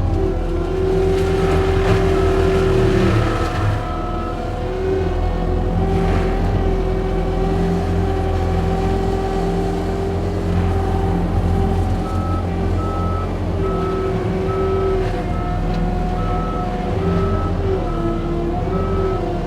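John Deere 335P skid steer's diesel engine and forestry mulcher head running steadily under working load, the pitch dipping slightly now and then as the cutter takes material. About twelve seconds in, an even beeping starts and keeps repeating.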